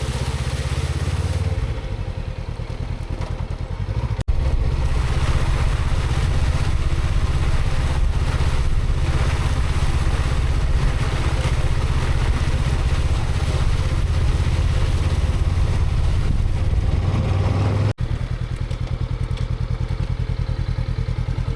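Honda CB500X's parallel-twin engine running steadily while the bike is ridden, with two brief breaks in the sound.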